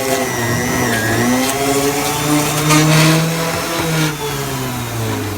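Electric blender motor running, its pitch wavering up and down and rising for a while in the middle, then cutting off at the end.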